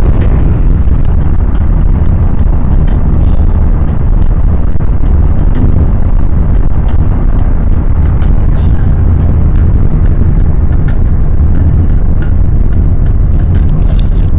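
Loud, steady low rumble of a moving vehicle, with a few faint clicks and rattles over it.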